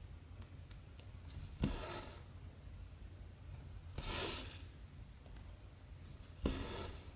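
Embroidery needle and cotton thread being pulled through cross-stitch fabric: three short rasps about two and a half seconds apart, each starting with a sharp tap.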